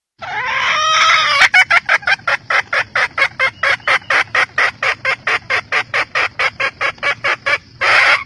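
Junglefowl hen calling: one drawn-out note, then a fast, even run of short clucks at about four to five a second, then a longer note near the end.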